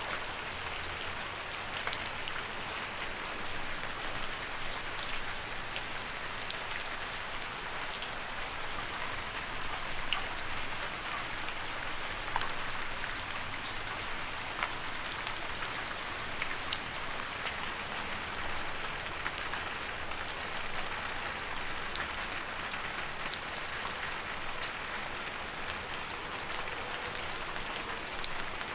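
Steady rain falling, an even hiss with scattered sharper drop impacts standing out now and then.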